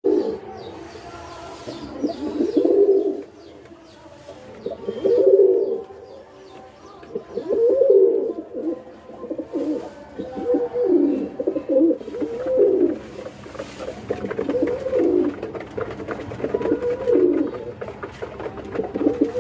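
Domestic pigeon cooing over and over in low, rolling phrases, about one every two to two and a half seconds.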